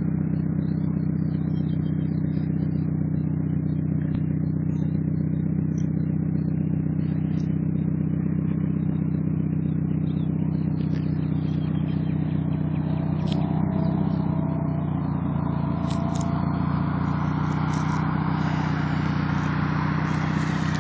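Straight-piped Audi A6 Quattro exhaust, the engine idling at a steady pitch. A rising hiss with a few clicks builds over the last few seconds.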